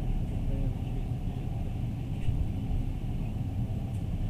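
Passenger train carriage rolling along the track, heard from inside as a steady low rumble.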